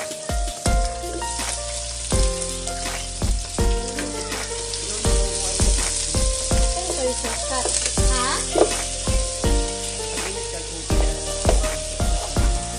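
Food sizzling in a non-stick frying pan on a gas hob as it is stirred, with a steady hiss. Background music with a regular beat plays over it.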